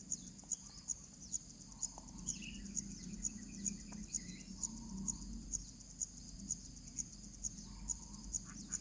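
Insects chirping in the background: a sharp, high chirp repeating evenly about twice a second over a steady high-pitched buzz, with a few faint higher twittering notes a couple of seconds in.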